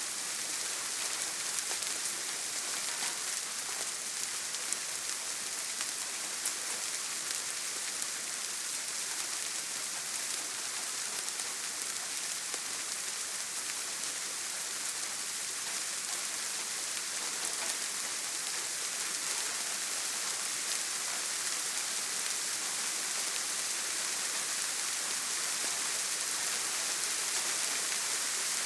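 Steady heavy rain on a tin roof: a dense, even hiss with scattered fine drop ticks.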